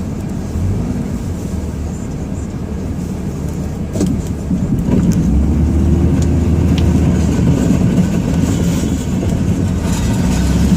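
Ram 2500's Cummins diesel engine running, heard from inside the cab while plowing. A click about four seconds in, after which the engine gets louder and holds a stronger drone for a few seconds.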